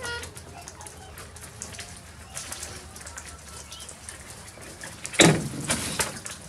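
Wild cockatoos feeding, with scattered small clicks and taps. One loud harsh screech about five seconds in, followed by a shorter squawk.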